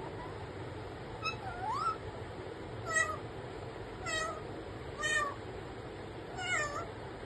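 Pet parrot mimicking a cat's meow: about five short meow-like calls, a second or so apart.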